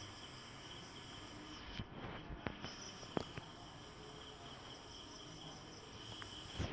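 Steady, high-pitched insect chorus droning without a break, with a few sharp clicks about two to three and a half seconds in and a louder burst of knocks at the very end.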